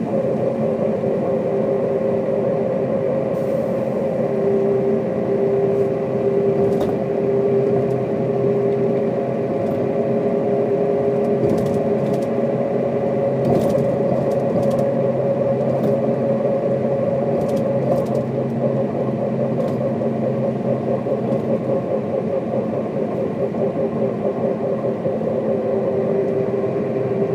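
Mercedes-Benz O407 city bus's diesel engine running steadily while the bus is under way, with its engine note holding nearly level. Light rattles and clicks come through now and then, mostly around the middle.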